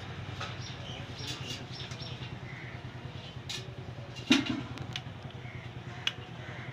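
Scattered sharp clicks and knocks of bicycle repair work, the loudest about four seconds in and another near six seconds, over a steady low hum.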